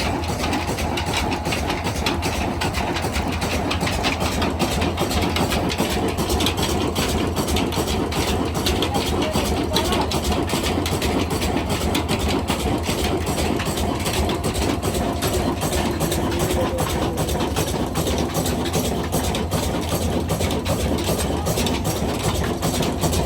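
Diesel engine running steadily at idle, a fast even firing beat with no change in speed.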